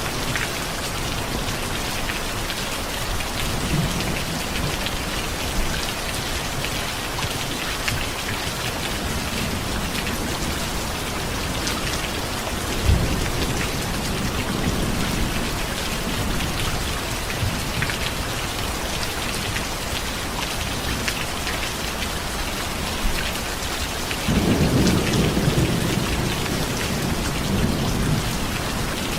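Steady heavy rain hissing on surfaces, with low rolls of thunder: one short rumble about halfway through and a louder, longer rumble near the end.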